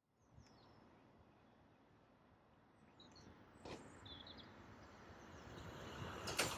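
Small birds chirping faintly while the rumble of an approaching South Western Railway electric train slowly grows, with a few sharp clicks from the wheels near the end.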